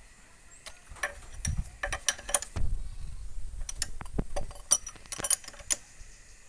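A wrench with a long extension handle is tightening a cylinder-head bolt on a Kamco power tiller's diesel engine. It makes an irregular run of sharp metallic clicks and clinks over about five seconds, with a couple of low knocks among them.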